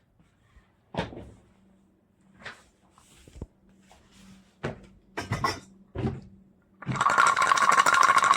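Scattered knocks and handling clicks, then a loud burst of crinkly rustling lasting about a second and a half near the end.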